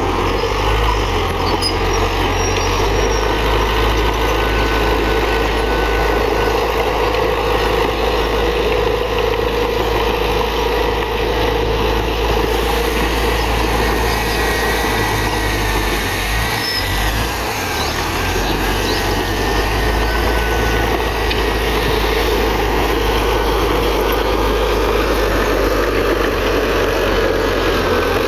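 Heavy diesel earthmoving machinery running steadily under load, its engine easing briefly a little past the middle.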